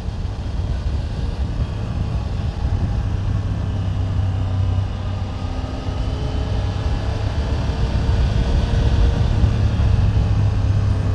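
A 2024 Triumph Tiger 900 GT Pro's three-cylinder engine runs steadily while riding, as a smooth, low hum that is "sewing machine quiet." It gets slightly louder in the second half.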